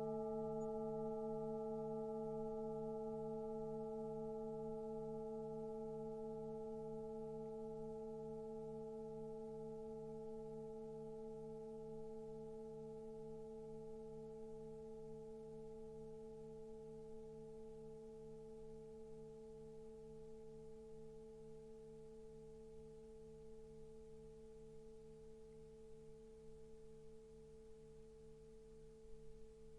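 Singing bowl ringing out after a strike, a long fading hum of several steady tones, its lowest tone wobbling in a slow even beat.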